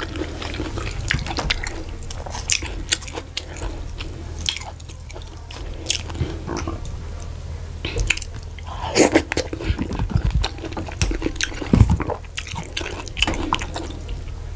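Close-miked eating by hand: chewing with wet mouth clicks and smacks as fufu, vegetable soup, meat and boiled egg are eaten, with a busier spell of smacking about nine seconds in.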